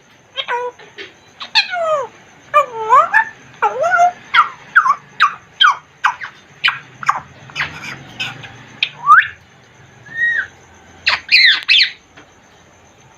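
African grey parrot giving a rapid run of sharp whistles and squawky calls, most of them sweeping down in pitch. It falls quiet about a second before the end.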